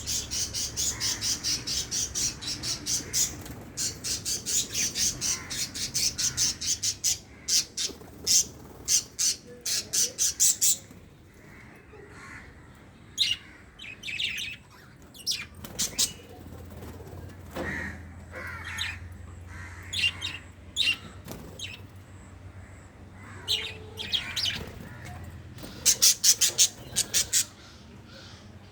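Pet budgerigars calling: a fast run of sharp, high chirps, about three a second, for the first ten seconds or so, then scattered squawks and chatter, with another quick run of chirps near the end.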